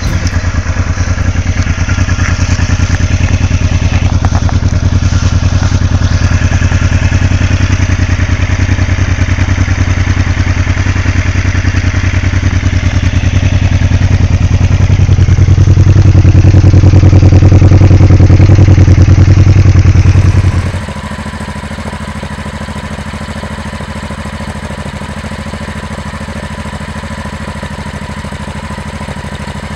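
Honda XL700V Transalp's V-twin engine running with a steady, pulsing exhaust note. It rises in level and pitch for a few seconds, then drops suddenly, about two-thirds of the way through, to a quieter steady idle.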